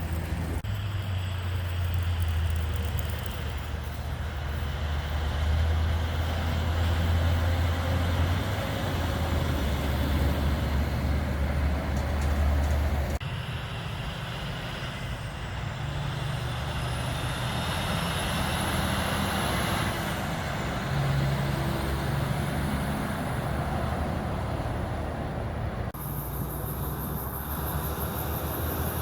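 Diesel engines of heavy trucks running as they pass in traffic, with a deep steady engine note in the first half; the sound changes abruptly twice, as one clip cuts to the next.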